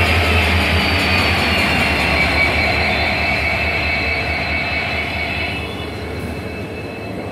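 A WDP4D diesel locomotive hauling an express train past, its low engine drone fading within about the first second. The coaches roll by with steady high squealing tones from the wheels over a broad rumble, growing quieter about six seconds in.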